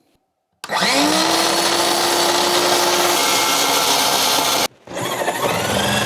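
Cordless power saw spinning up and cutting a hole through a wooden floor. It runs steadily for about four seconds, stops briefly, then starts again near the end.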